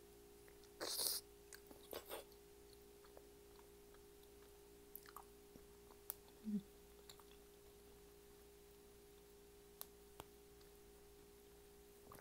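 Close-miked mouth sounds of biting into and chewing raw honeycomb: a few wet smacks in the first two seconds, then only sparse faint mouth clicks.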